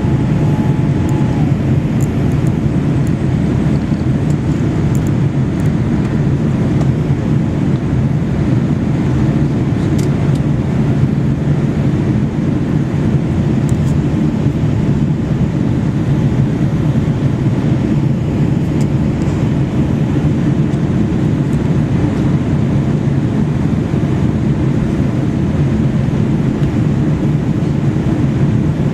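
Steady cabin noise inside an airliner in flight: a constant low rumble of engines and airflow, with no change in level.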